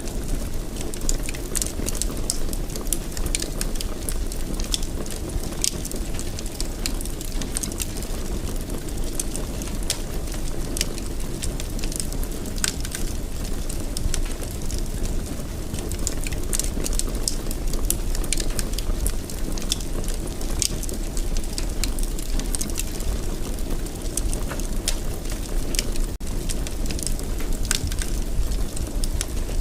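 Wood fire crackling in a fireplace: a steady low rumble of flames with frequent sharp crackles and pops, several each second.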